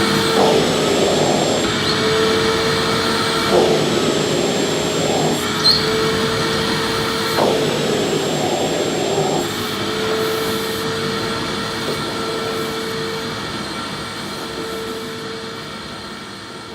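Vacuum cleaner running with a steady whine. Three times, about every four seconds, the sound briefly changes as the nozzle is pushed over the floor. It then runs steadily while fading down gradually toward the end.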